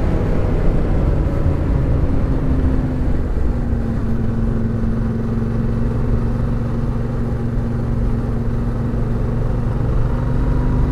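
Suzuki motorcycle engine running steadily while riding uphill, with a low rumble of wind and road noise. The engine note eases slightly about three seconds in and rises again near the end, and a steady whine runs under it that the rider takes for the chain rubbing.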